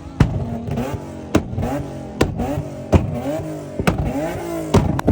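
A car engine revving up and down repeatedly, with many sharp pops through it.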